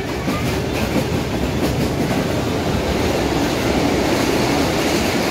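Steady rumble and rattle of a moving passenger train, heard from inside the carriage.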